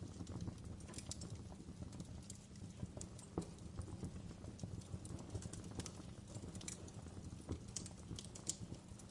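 Wood fire crackling in a fireplace: irregular sharp pops and snaps over a steady low rumble of the burning fire, with a slightly louder pop about three and a half seconds in.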